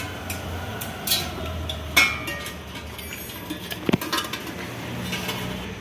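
Metal engine parts and hand tools clinking and tapping as the new oil strainer is fitted, with a few sharp metallic knocks about one, two and four seconds in.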